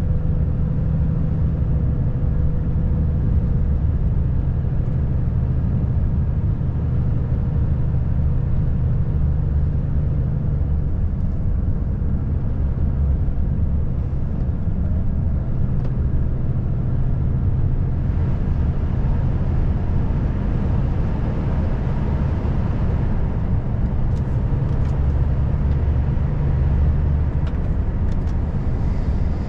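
Volvo FH540 truck's 13-litre straight-six diesel engine running steadily under way, with a continuous low drone mixed with road noise.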